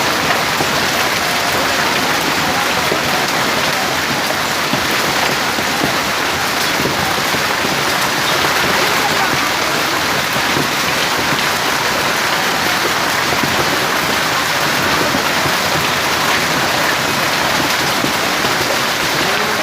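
Hail and rain pelting down in a dense, steady patter of countless small impacts that does not let up.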